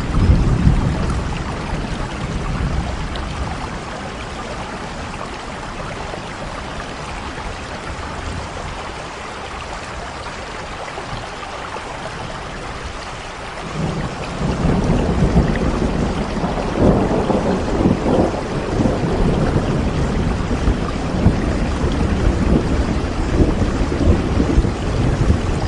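Steady rainfall with thunder. A low rumble at the start fades out, and after a quieter stretch a longer, louder rumble builds about halfway through and continues to the end.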